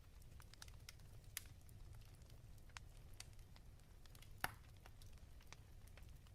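Fireplace crackling quietly: irregular small snaps and pops over a low steady rumble, with one sharper pop a little past halfway.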